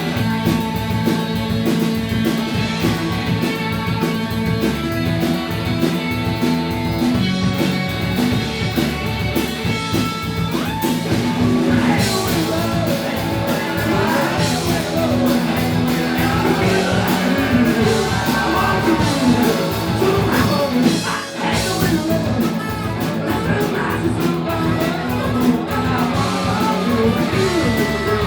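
Rock band playing live, with electric guitar and drums and a singer's voice coming in about twelve seconds in; the band drops out very briefly around twenty seconds in.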